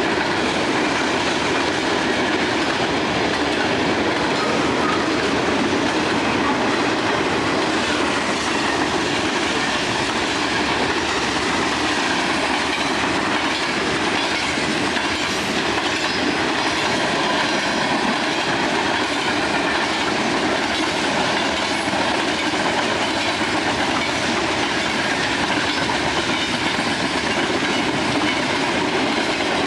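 Railroad cars rolling steadily past, with steel wheels clattering over the rail joints in a continuous, even rumble.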